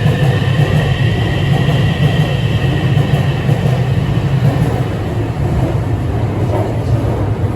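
Beijing Subway Line 7 train running, a steady heavy rumble with a high electric motor whine that fades out a few seconds in.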